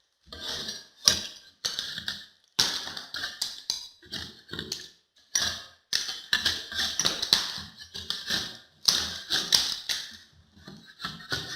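Hand scraper stripping old finishing putty and paint off the wall in a run of short, irregular scraping strokes with brief pauses between them.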